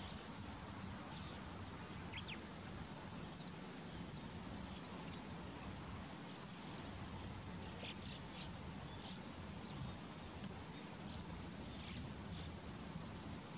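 Scattered short bird calls and chirps, a few close together about two-thirds of the way in, over a steady low background hum.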